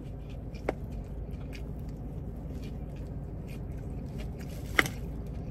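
A person chewing a fried chicken slider with the mouth closed: soft wet mouth clicks, with two sharper smacks just under a second in and near the end, over a steady low hum inside a car.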